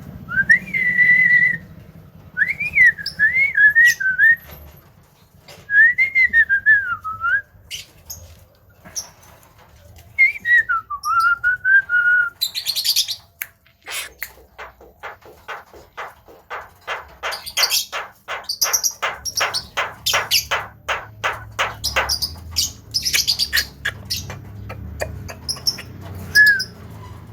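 Javan myna whistling a string of notes that glide up and down. About halfway through it breaks into a fast run of clicking chatter, about four clicks a second, with high harsh calls over it.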